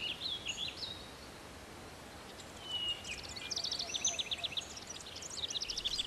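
Small birds singing over a faint outdoor background: a few warbled notes at the start, a clear whistle about two and a half seconds in, then quick runs of high chirps.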